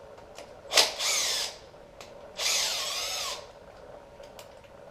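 Cordless drill spinning out the hand-loosened timing-chain tensioner bolts on a 3.7 L Atlas inline-five engine: two short whirs, the second one longer with its pitch sagging and recovering, and a few light clicks between them.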